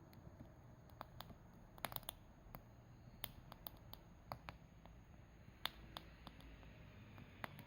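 Campfire crackling: irregular sharp pops and snaps from the burning fuel over a faint background.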